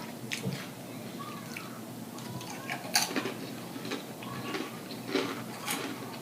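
Scattered light clicks, taps and rustles of food and its packaging being handled, with a few sharper clicks around the middle.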